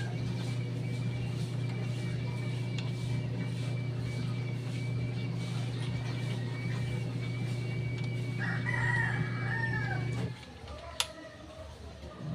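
A rooster crows once, about eight and a half seconds in, over a steady machine hum that stops suddenly about ten seconds in; a sharp click follows.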